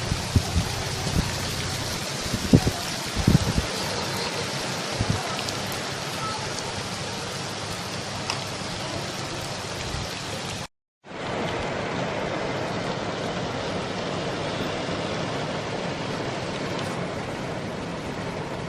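Heavy rain falling as a steady hiss, with a few low thumps in the first five seconds. The sound cuts out briefly about eleven seconds in, then the rain hiss resumes.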